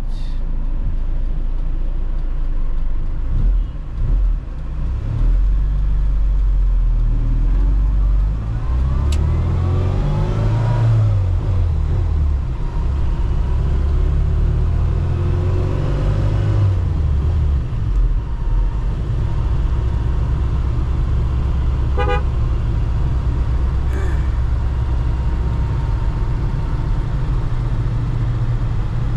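Classic Mini Cooper's engine running with a steady low rumble, revving up and down twice, around ten and sixteen seconds in.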